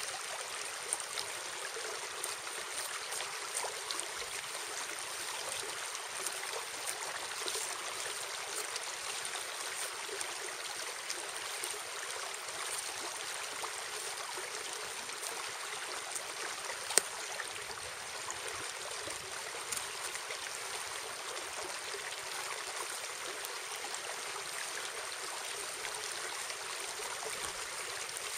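Steady rush of running water, like a nearby stream, with scattered faint clicks and one sharper click about 17 seconds in.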